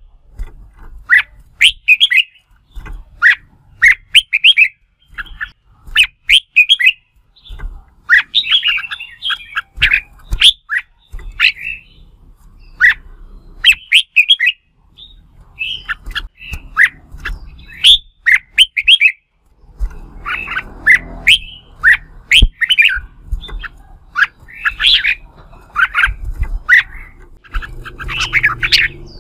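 Red-whiskered bulbul singing its contest song: loud, short chirping phrases repeated about once a second with brief pauses. This is the aggressive song that provokes other bulbuls into singing back.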